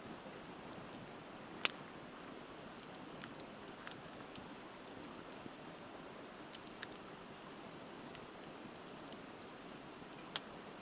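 Wood bonfire crackling with scattered sharp pops, two louder snaps about one and a half seconds in and near the end, over the steady rush of a river.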